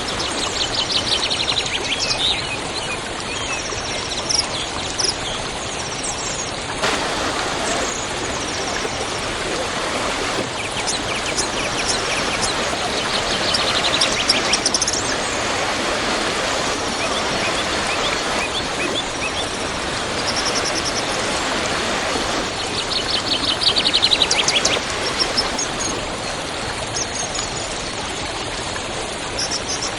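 Waterfall rushing steadily, with songbirds calling over it: rapid trills near the start, around the middle and again about three-quarters through, and short high whistled notes.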